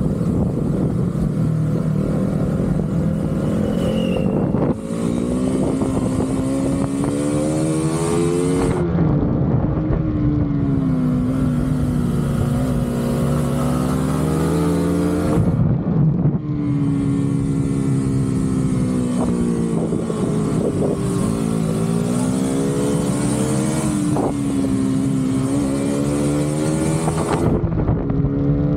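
Motorcycle engine running hard at road speed, its pitch climbing and falling as the throttle is worked, with two brief drops about five and sixteen seconds in. Wind rushes over the microphone throughout.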